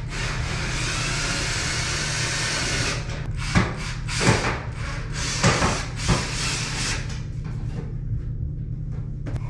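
Power drill/driver running steadily for about three seconds as screws are driven into the dryer's metal panel, followed by four or five sharp knocks and clunks of the metal housing being handled.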